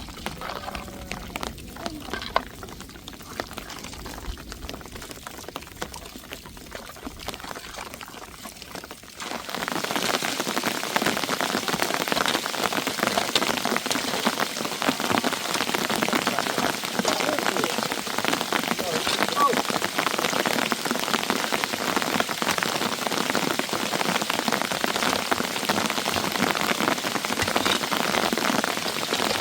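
Rain falling on a surface, at first lighter with scattered drops. About nine seconds in it suddenly becomes a much louder, dense downpour of many small hits.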